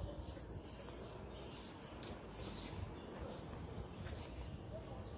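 Small birds chirping faintly, short high chirps about once a second, over a steady low outdoor background hum.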